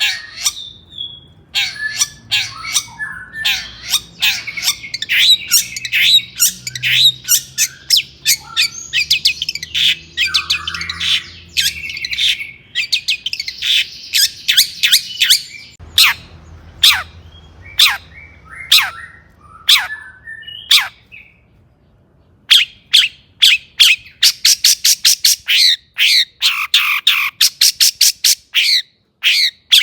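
Long-tailed shrike (cendet) singing a fast, varied song of sharp chips and warbled phrases. It breaks off briefly about three quarters of the way through, then resumes with a rapid run of sharp repeated notes.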